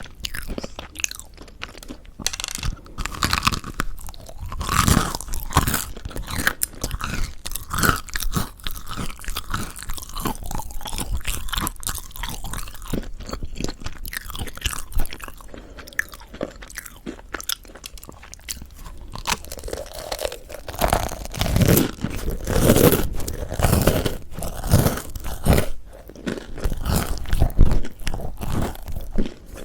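Close-miked biting and chewing of crispy mocha bread (Korean mocha chapssal-ppang), its crisp crust crackling between the teeth in dense crunches, with louder, fuller chewing in the last third.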